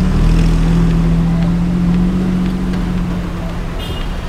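Porsche 911 Targa 4S flat-six engine running with a steady low drone as the car pulls away at low speed, fading after about three seconds.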